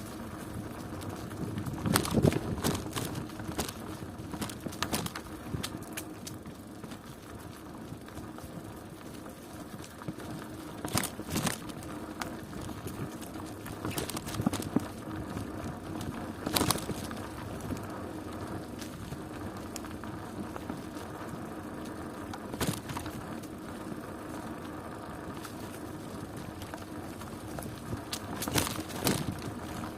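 A bicycle being ridden: steady rolling noise with a faint hum, broken by irregular knocks and rattles, the loudest about two seconds in, near the middle and near the end.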